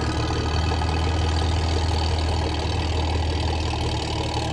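An engine idling steadily, with a constant low hum and an even, unchanging note.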